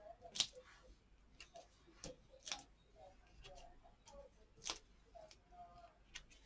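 Faint hand-crafting noises: a few light clicks and taps, with soft rustling, as card pieces and foam adhesive dimensionals are handled on the desk.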